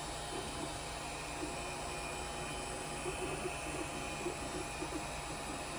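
3D printer running a print: steady fan hum with the stepper motors whirring in short, irregular patches as the print head moves.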